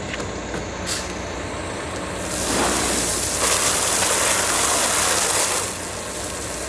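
A loud rushing hiss starts about two seconds in and stops sharply some three and a half seconds later, over a steady low engine hum.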